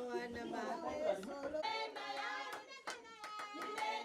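Singing voices with hand clapping; several sharp claps stand out in the second half.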